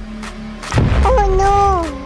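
Cartoon sound effects: a low boom, then a short wavering cry that bends down at its end.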